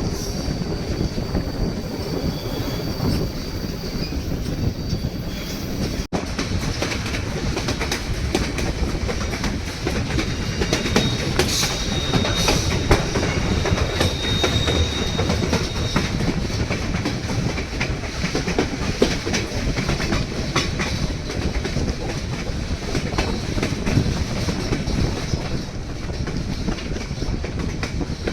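White Pass & Yukon Route narrow-gauge train running along the track: a steady rumble with wheels clicking over the rail joints. A thin, high wheel squeal sounds from about 12 to 15 seconds in.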